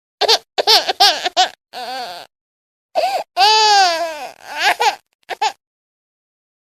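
A baby crying in a series of short wails, with one longer drawn-out wail about three and a half seconds in.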